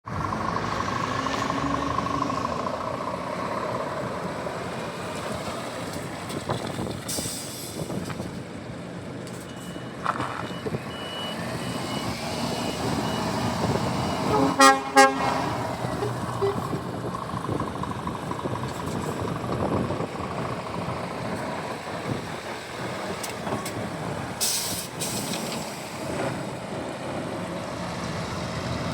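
Scania S500 tractor unit's diesel engine running steadily, with two short horn blasts about halfway through. Short hisses of air come once early on and once near the end.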